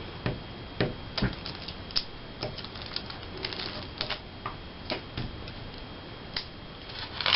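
Paper cutouts and craft supplies being handled on a tabletop: a string of light, irregular clicks and taps, roughly two a second.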